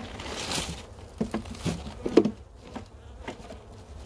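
A few short wooden knocks and scrapes as beehive frames and hive parts are handled, the sharpest about two seconds in, over the low buzz of honey bees around the open hive.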